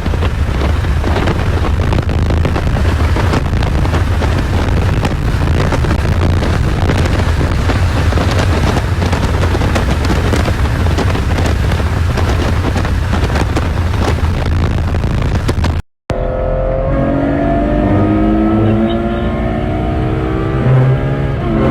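Ferrari GTC4Lusso's V12 engine heard from inside the car at speed, nearly buried in heavy wind buffeting and low rumble. After a cut about three-quarters of the way through, the engine's note stands out clearly and climbs steadily in pitch as it pulls up through the revs.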